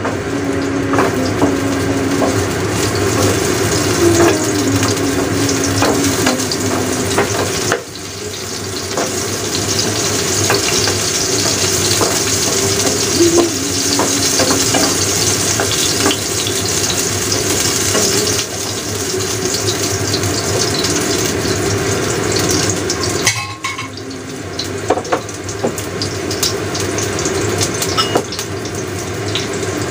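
Sliced shallots sizzling and crackling in hot oil in a frying pan, stirred with a wooden spatula. The sizzle dips abruptly twice, about eight seconds in and about twenty-three seconds in.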